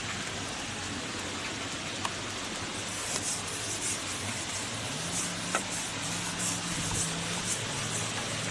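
Steady wind noise on the microphone. From about five seconds in, a faint low engine hum rises and falls.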